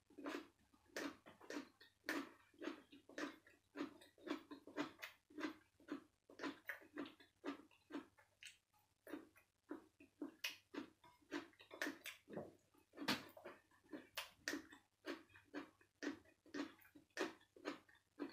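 A person chewing food close to the microphone: a steady run of moist, clicking chews, about two to three a second.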